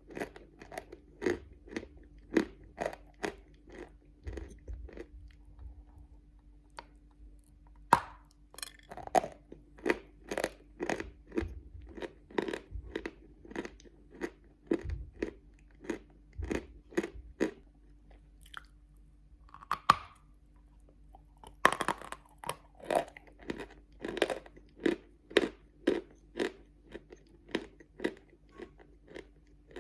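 Close-up mouth sounds of someone chewing hard, grey-blue edible chalk: a steady run of dull crunches, about two a second, with a short pause in the middle before the chewing picks up again.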